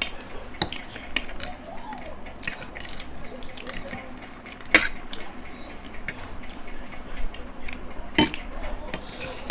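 Cutlery clicking and scraping against plates as people eat noodles, with two louder clinks about five and eight seconds in.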